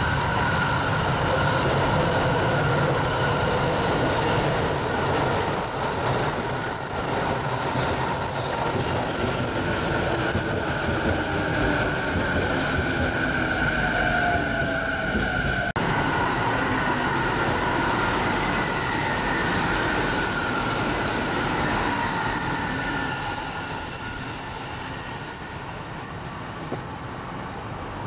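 Train running past on a curved track, its wheels squealing against the rails in several high, wavering tones over the running noise. It grows quieter near the end.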